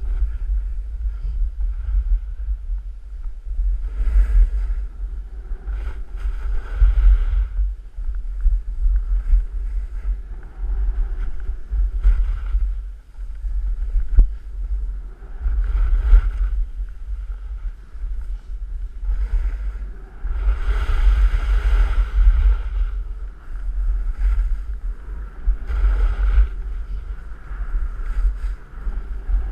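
Wind rumbling heavily on the microphone during a fast downhill ride on snow. Every few seconds there is a swishing scrape of edges carving a turn.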